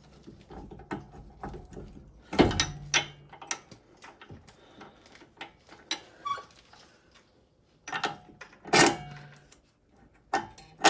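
Metal clinks and small irregular ticks of a bolt and hand tools being worked while the lower bolt is fitted to a steering knuckle, with two louder metal clanks that ring briefly, one about two and a half seconds in and one near the end.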